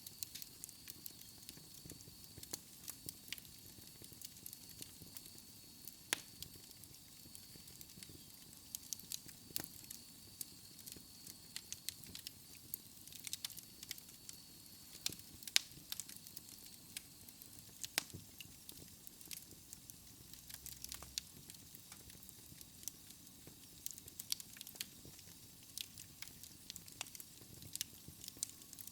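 Wood fire crackling in a fireplace: irregular sharp pops and snaps over a soft hiss, with a faint high whistle through the first half.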